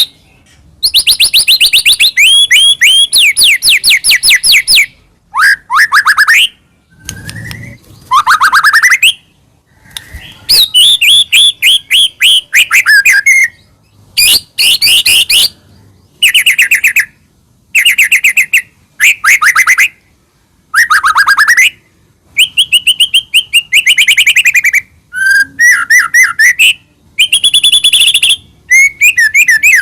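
White-rumped shama (murai batu) singing loudly in a run of separate phrases, each a burst of fast, repeated whistled notes, with short pauses between phrases.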